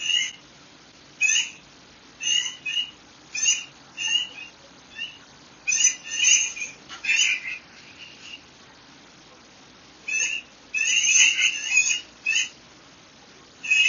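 Birds chirping in short, quick calls, one or several every second, with a lull of about two seconds partway through, over a faint steady background hiss.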